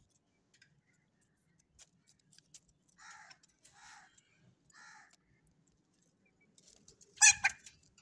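Caged birds squawking: three short harsh calls about a second apart, then a louder call near the end.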